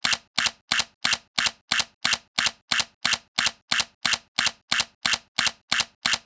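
Sony A7C camera shutter firing over and over in an even run of about three sharp clicks a second.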